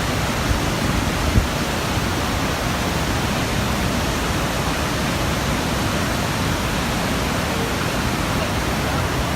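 Steady rushing of the Gullfoss waterfall, a dense, even wash of falling water with no letup. There is one brief low bump about a second and a half in.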